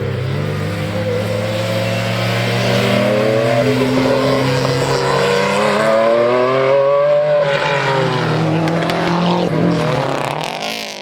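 A rally car's engine revving hard as it accelerates, its pitch climbing for several seconds and then falling away about two-thirds of the way through.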